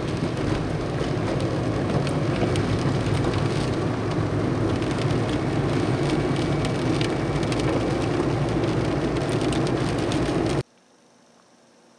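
Storm noise of heavy rain and wind, with many small drop ticks on top of a dense rushing hiss. It cuts off abruptly about ten and a half seconds in.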